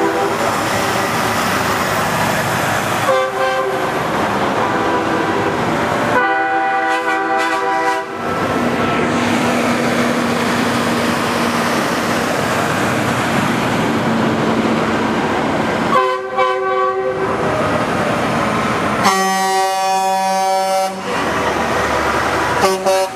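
Semi-truck air horns on parading race-team haulers blasting about five times, each a brief toot to a two-second blare, over the steady noise of passing trucks.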